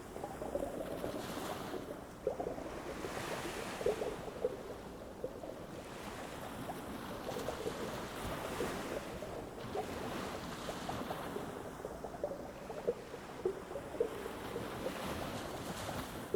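Ocean waves breaking and washing up a beach, swelling and ebbing every few seconds, with many short crackles in the wash.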